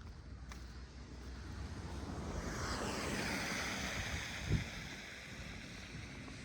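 A vehicle passing on a snowy road, its tyre hiss swelling and fading over a few seconds, with a short thump about four and a half seconds in.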